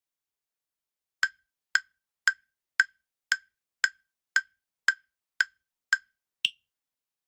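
Quiz countdown-timer sound effect: eleven sharp ticks about two a second, starting a little over a second in. The last tick is higher-pitched than the rest.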